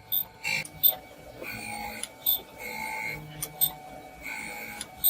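Metalworking noises: an irregular run of sharp metallic clicks and knocks, some followed by a brief ringing tone.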